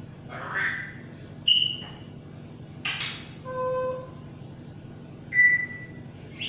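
Pet bird whistling and squawking: a string of short, separate whistles and rough squawks, with a lower hooting whistle about halfway through and the loudest whistles about a second and a half in and near the end.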